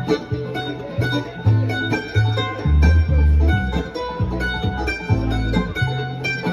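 Acoustic string band playing a bluegrass-style jam tune: quick picked string notes over a bass line of separate low notes, about two to three a second.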